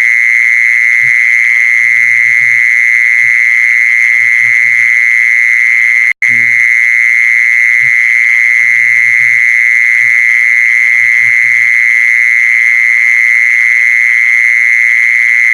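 A loud, steady high-pitched whine that cuts out for an instant about six seconds in, with faint, short low calls repeating beneath it.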